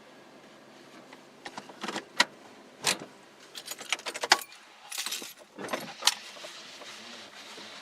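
Car keys jangling, a run of metallic clicks and jingles over about five seconds, as they are handled after the car is parked.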